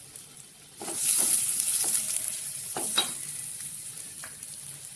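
Sliced onions and whole garam masala sizzling in hot oil in a steel kadai. The sizzle flares up about a second in as a wooden spatula stirs them, then slowly dies down, with a few scrapes and knocks of the spatula on the pan.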